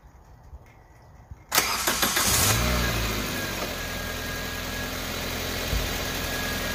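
Car engine being started: about a second and a half in, the starter cranks for about a second, the engine catches with a brief rev and settles to a steady idle. The battery did not drop below 10 volts at startup, a sign that it has the cold cranking amps it needs.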